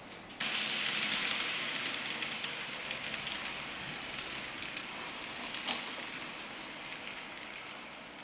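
N gauge model train running on its track: a light metallic rattle of the wheels on the rails, dotted with small clicks from the rail joints. It starts abruptly about half a second in, then slowly fades.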